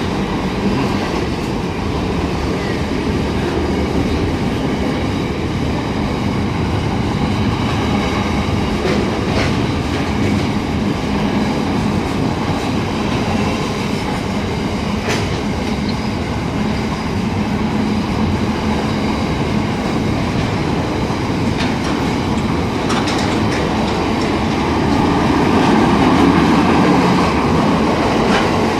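Wagons of a long freight train rolling steadily past, a continuous rumble with the wheels clicking over rail joints now and then.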